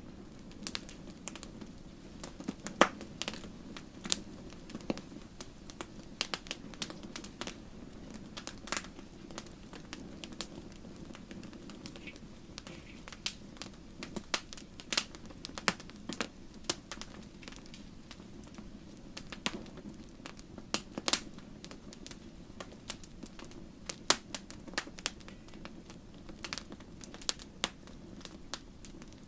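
Campfire burning: wood crackling and popping in irregular sharp snaps, some much louder than others, over the low steady rush of the flames.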